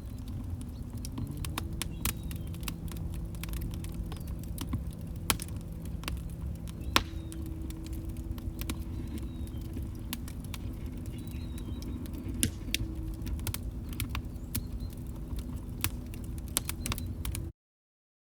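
Wood fire burning in a fireplace: irregular sharp crackles and pops over a low steady rumble, with a faint low steady tone underneath. The sound cuts out to silence for just under a second near the end.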